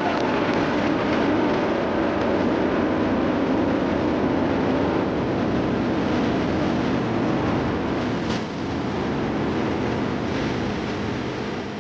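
Jet engine noise of the X-59's single General Electric F414 turbofan at takeoff power: a loud, steady rushing roar.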